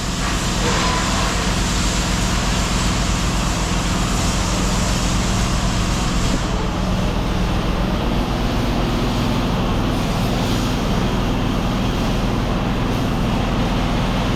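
An engine idling steadily: a constant low hum that holds one pitch throughout.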